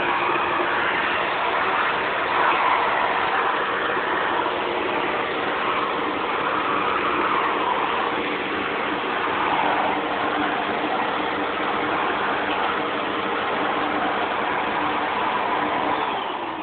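Vacuum cleaner running steadily, its airy rush shifting in tone now and then, and beginning to wind down at the very end.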